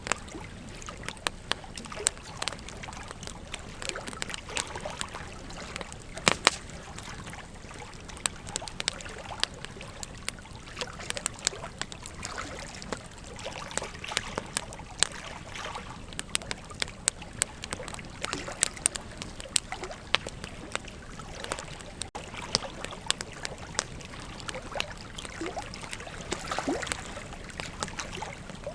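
Wood campfire crackling, with frequent irregular sharp pops, the loudest about six seconds in, over the steady rush of a flowing river.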